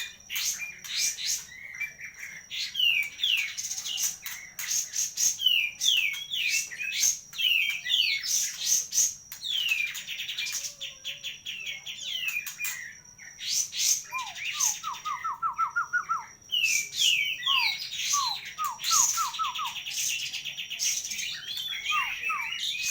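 A caged songbird of the kind sold as 'kapas tembak' singing continuously: fast runs of short, sharp, downward-sweeping whistles, with rattled series of lower notes now and then. A steady high thin tone runs behind it, breaking off briefly a few times.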